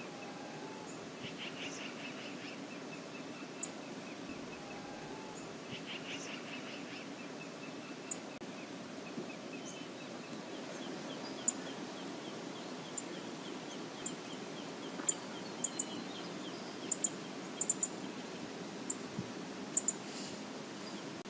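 Steady rush of river water with birds calling over it: a few short runs of quick chirps and many single sharp high ticks, coming more often in the second half.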